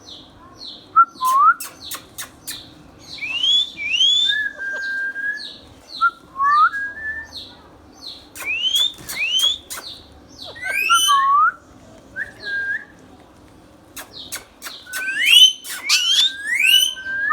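Ringneck parrot (rose-ringed parakeet) giving short whistled chirps that sweep upward, in scattered bursts that are busiest near the end, with a few sharp clicks among them.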